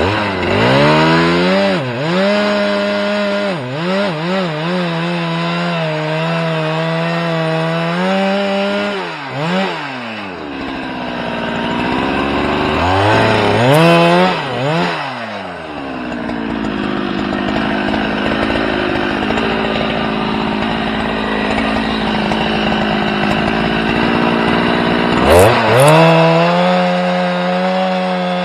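A small engine running at high speed with several sharp throttle dips and recoveries in the first half. From about sixteen to twenty-five seconds in it holds a slightly lower steady pitch under a noisy, rasping load, then picks back up to full speed.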